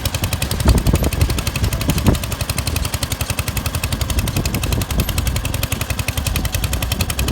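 Modified Cub Cadet garden pulling tractor's engine running hard under load through a full pull, its firing heard as a fast, even, sharp rattle.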